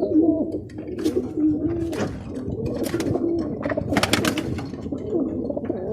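Several roller pigeons cooing together in a loft, their low wavering coos overlapping throughout, with a few short sharp taps or flaps in between.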